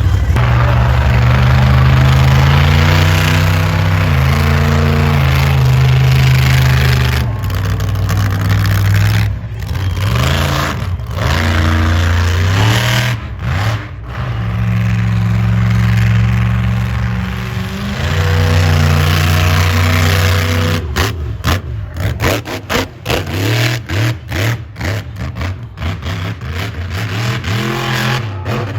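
Monster truck engine revving up and down again and again, the pitch climbing and dropping with the throttle. About three-quarters of the way through the sound turns choppy and broken, with rapid stuttering bursts and sharp knocks.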